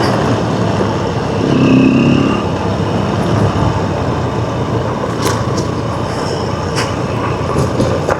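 Dirt bike engine running while riding a rough dirt road, with a steady rushing noise. The engine note swells briefly about two seconds in, and a few sharp knocks come between about five and seven seconds in.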